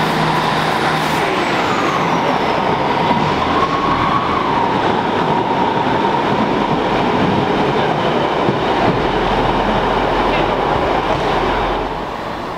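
Northern Class 150 Sprinter diesel multiple unit running past at close range, engine and wheel noise loud and steady with a high squeal running through it. The noise drops away near the end.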